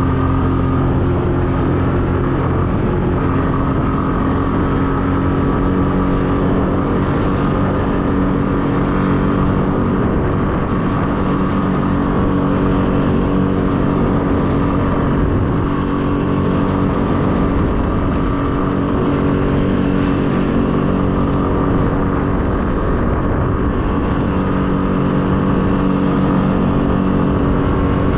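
Small fishing boat's outboard motor running steadily under way, a constant engine drone with a rush of noise over it.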